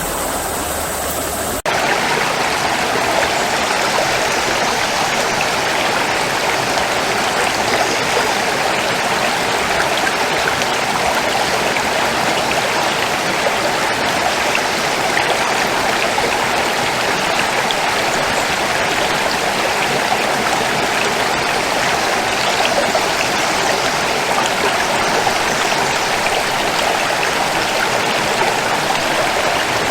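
Stream water flowing steadily. About two seconds in there is an abrupt cut from a slightly different recording into the steady rush of the stream.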